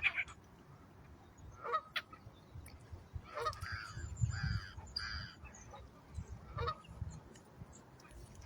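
Geese honking: a handful of short calls, bunched together in the middle with a few stray ones before and after.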